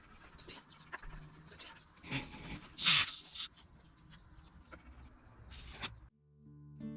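Pet dog making sounds close by: scattered light clicks and two short, loud hissy bursts about two and three seconds in.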